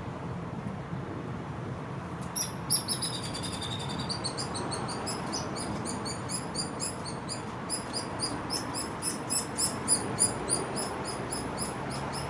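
Hairy woodpecker fledgling begging: a rapid run of short, high chirps, about three or four a second, starting about two seconds in and going on without a break.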